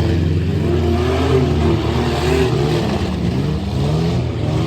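Truck engines running hard under load, their pitch rising and falling as they rev.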